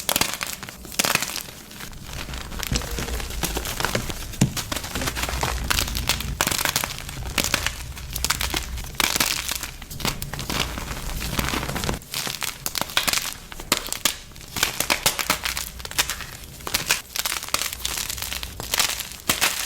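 Blue homemade gym chalk being crushed and crumbled: a dense, continuous run of crunchy crackles and snaps, with a low rumble underneath that stops about two-thirds of the way through.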